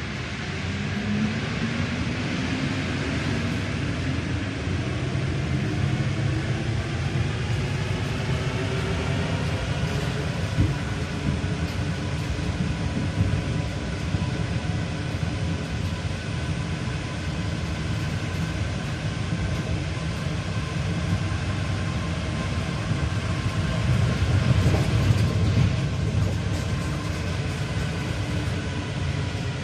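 Paris Métro line 1 rubber-tyred MP 05 train heard from on board. Its traction motors whine in several rising tones as it gathers speed, then it runs steadily with a continuous rumble that swells briefly late on.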